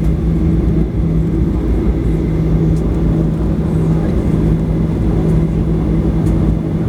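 Boeing 737-800 with CFM56-7B jet engines: a steady low rumble with a constant hum.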